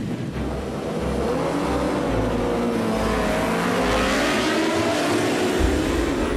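Superbike racing motorcycle engines at high revs passing at speed. The pitch bends up and down, and the sound swells to its loudest about four seconds in.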